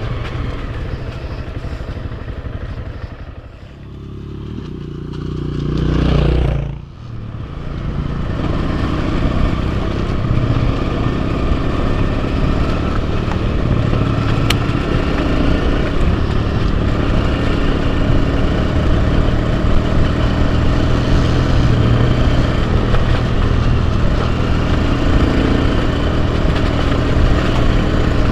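Enduro motorcycle engine running as the bike is ridden along a trail, swelling about six seconds in and then dropping off sharply before picking up again.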